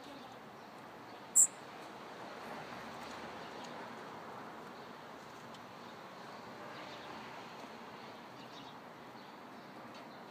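Caged indigo bunting giving short, sharp, very high chip calls rather than song, one loud call about a second and a half in and fainter ones after it, over a steady background hiss.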